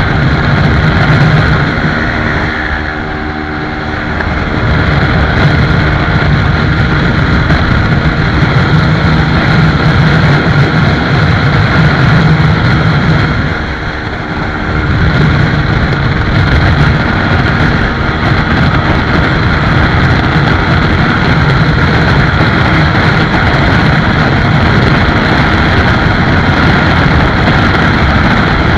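Motorcycle riding fast: steady engine drone under heavy wind rush. The sound eases off briefly twice, about three seconds in and again about fourteen seconds in.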